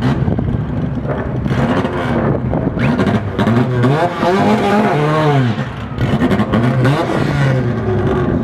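Car engines idling and being revved, the pitch rising and falling several times in the middle.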